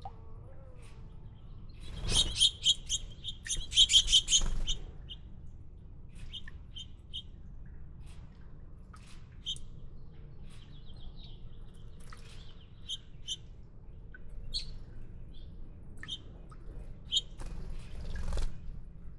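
Small birds chirping: a quick, loud flurry of chirps about two seconds in that lasts a couple of seconds, followed by scattered single chirps.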